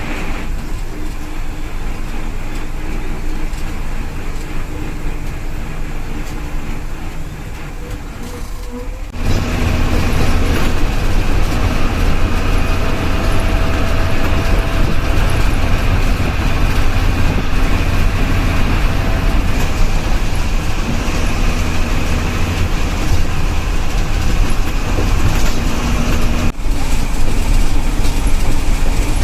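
Tata diesel bus running on the road: a steady engine drone with road and tyre noise. The sound jumps to a louder, heavier rumble about nine seconds in.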